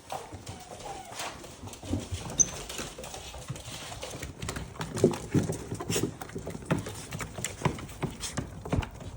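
Pit bull puppies running in a group, their paws and claws pattering and clicking on a hard floor in quick, irregular taps.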